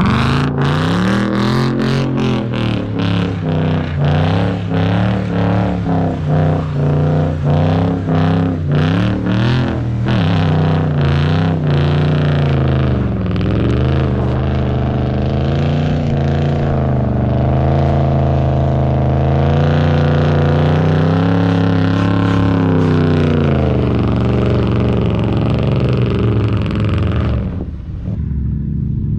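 A car engine revved hard as it drifts in snow. For about the first ten seconds the revs pulse rapidly, a few times a second. After that the engine holds high revs, swelling and falling, and eases off briefly near the end.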